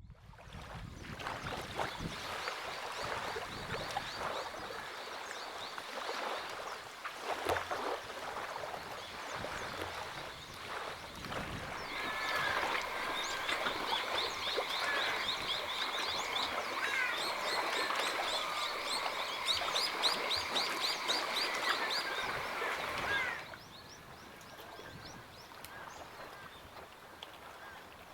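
Birds calling and chirping over a noisy outdoor background, becoming a dense chorus of rapid chirps and trills about twelve seconds in that cuts off suddenly near the end.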